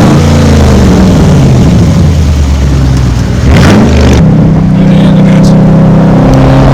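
Dodge Charger Scat Pack's 392 (6.4-litre) HEMI V8 running loud through an exhaust with the mid mufflers and resonator deleted. The engine note is deep at first and steps up in pitch after a brief rush of noise about three and a half seconds in.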